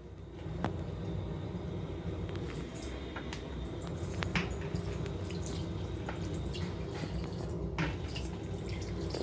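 Water from a newly installed Chicago sensor-activated faucet running and dripping into the sink, with scattered small clicks and splashes, as the faucet is tested.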